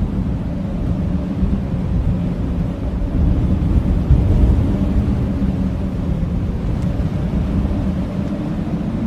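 Blizzard wind blowing hard in a steady deep rumble, with a faint, even howl.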